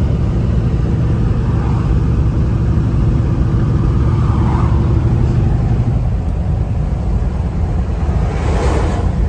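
Kenworth T680 semi-truck driving, a steady low engine and road rumble, with a brief rushing whoosh about eight and a half seconds in.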